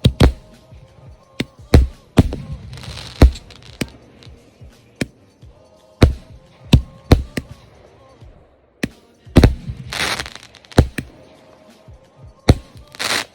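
Custom 500-gram consumer firework cake firing shot after shot: about twenty sharp reports at uneven spacing, with a few longer hissing bursts, over background music.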